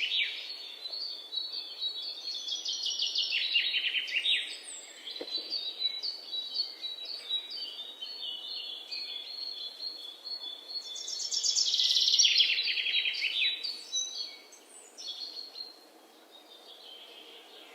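Songbirds singing: quick trilled phrases that fall in pitch, loudest about three seconds in and again about eleven seconds in, with scattered chirps between them over a faint outdoor hiss.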